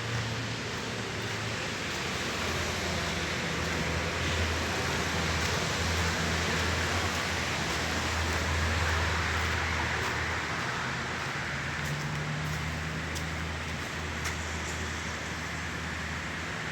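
Steady road traffic noise, with car sounds swelling and easing off.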